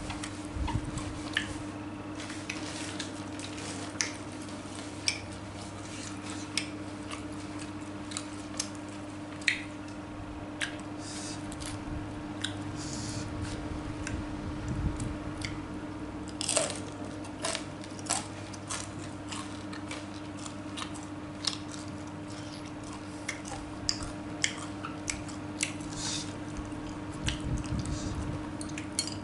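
Close-miked chewing and biting of extra-spicy tofu: wet, squishy mouth sounds with irregular sharp smacks and clicks, over a steady low hum.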